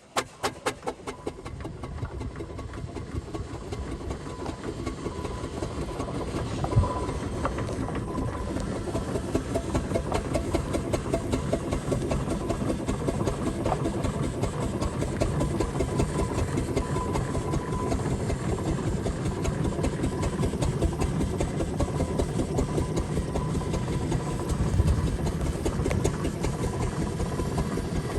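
1911 Foden steam traction engine running, with a steady, rapid rhythmic beat that grows louder over the first few seconds.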